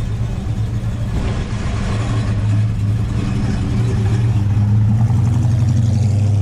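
A classic car's engine running at low revs, a steady low hum that grows louder toward the end.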